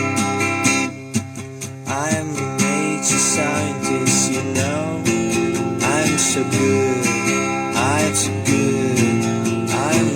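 Music: a strummed acoustic guitar playing an instrumental intro, with a sliding melodic phrase that bends up and down about every two seconds.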